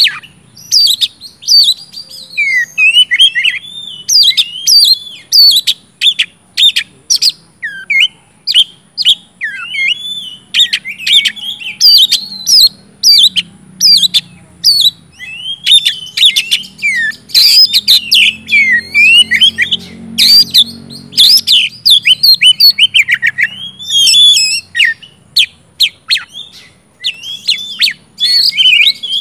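Oriental magpie-robin (kacer) in full, loud song: a rapid, nearly unbroken stream of varied whistles, slurred notes and chirps. A faint low hum lies underneath through the middle.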